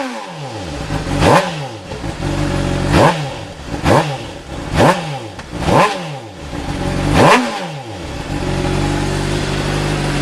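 2009 Honda CBR600RR's inline-four engine, exhausting through the stock muffler with its baffles removed, blipped six times with quick throttle revs. Each rev rises sharply and falls back. It then settles into a steady idle for the last couple of seconds.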